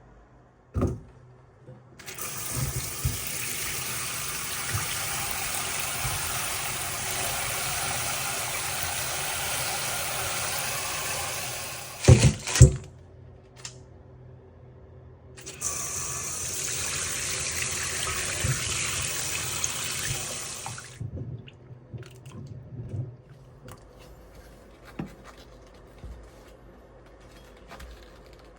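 Kitchen tap running into a sink, in two stretches of about ten and five seconds, with two loud knocks between them and quieter small handling sounds afterwards.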